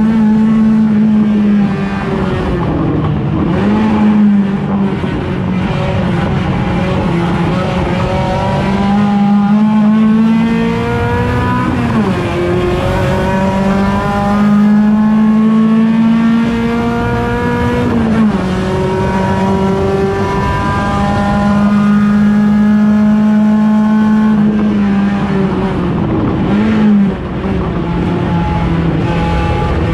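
Race car's 1.6-litre engine running hard, its pitch climbing slowly under acceleration and dropping sharply several times at gear changes or braking.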